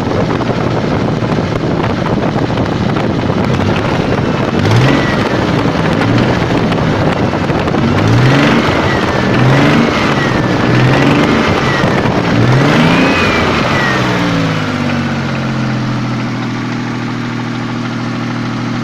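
Toyota 7M-GE straight-six engine revved in about five quick throttle blips, then settling back to a steady idle. It has a knock that specialists put down to the crankshaft, while the owner is unsure whether it comes from the crankshaft or the cylinder head.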